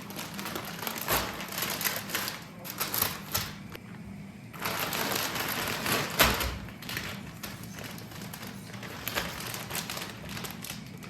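Kitchen clatter: a run of clicks and knocks from dishes and utensils being handled over a steady low hum, with a rush of noise for about two seconds near the middle.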